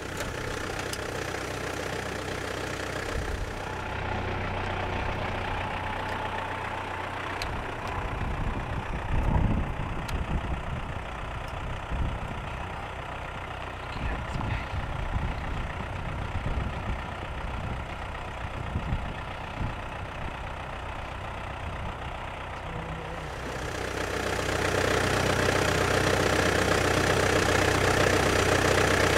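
A vehicle engine idling steadily, with gusts of wind buffeting the microphone through the middle.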